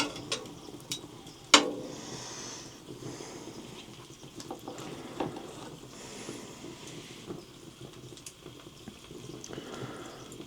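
Meat sizzling on a grill over a wood fire, with scattered sharp crackles and pops from the burning wood; the loudest pop comes about a second and a half in.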